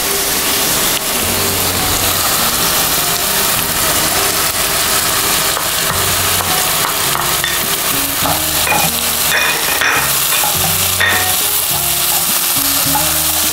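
Chopped onion and capsicum sizzling and frying in oil in a pan while being stirred, with a steady hiss and a few sharp clicks of the stirring utensil against the pan in the second half.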